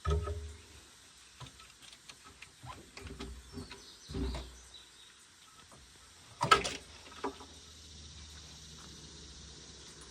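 Hand tools working on metal hydraulic hose fittings: scattered clicks and knocks with a couple of low thuds, and one loud sharp clank about six and a half seconds in.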